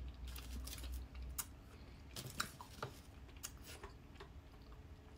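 Chewing crispy frozen milk chocolate: faint, irregular small crunches and clicks.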